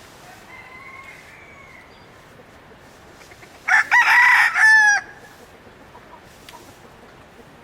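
A rooster crows once, a loud call lasting just over a second about midway through, with fainter calls earlier.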